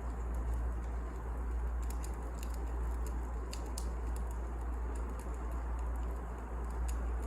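Wood fire burning in a fireplace: a steady low rumble and hiss with irregular sharp crackles and pops from the burning logs.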